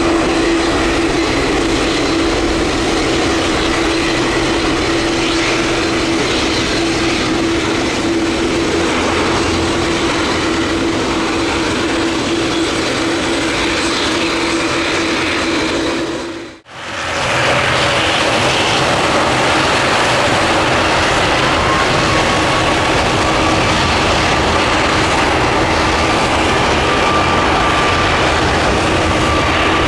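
Jet airliner engines running loud and steady, first a Boeing 787-9 with a steady droning tone. About halfway through the sound drops out briefly at an edit, and a Boeing 737 MAX 8 with CFM LEAP-1B engines follows, a faint whine rising slowly under the engine noise.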